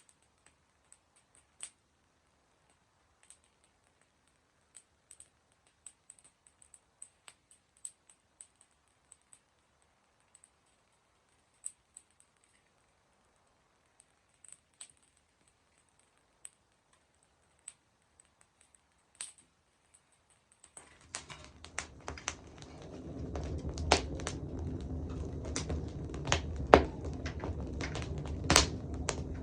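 Wood campfire crackling: scattered sharp pops and snaps of burning wood, sparse at first. About two-thirds of the way through, a steady low rumble rises under it and the pops come thicker and louder.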